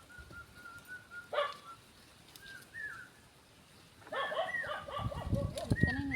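A dog whining and yipping in short, high-pitched calls. The calls come in a quick run at first, turn to a few bending whines, and grow busier and louder over the last two seconds.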